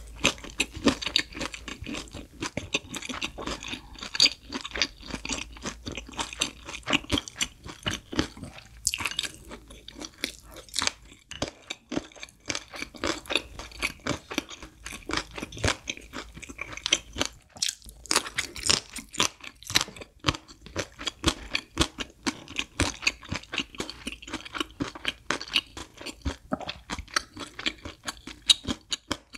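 Close-miked crunching and chewing of yellow pickled radish (danmuji): a dense run of crisp crunches with brief pauses.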